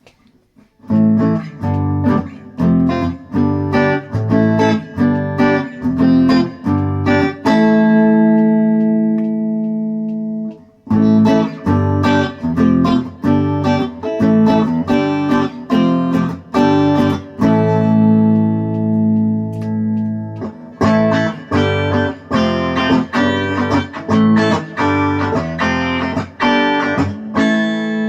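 Fender Squier Bullet electric guitar fitted with PRS pickups, played through a clean sound: chords strummed in a steady rhythm, with a chord left to ring out twice.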